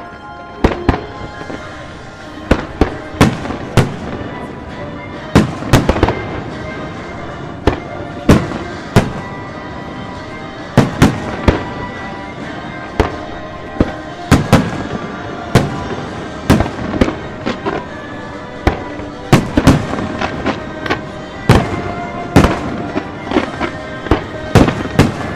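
Fireworks bursting: many sharp bangs at uneven intervals, several close together, with music playing underneath.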